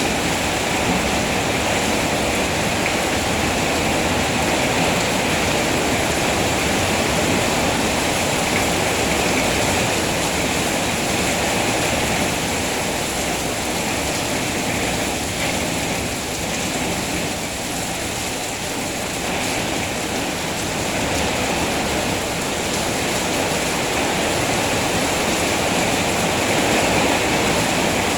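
Heavy rain falling steadily, an even hiss of water that eases slightly for a few seconds a little past the middle.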